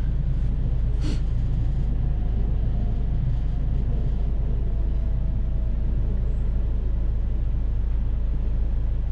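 Steady rumble of a van's engine and tyres, heard from inside the cab while driving.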